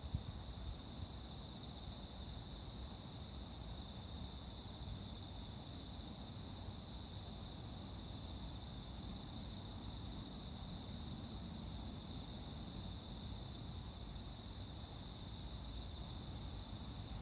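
Insects trilling in a steady, unbroken chorus: a high even trill with a higher band above it, over a low background rumble.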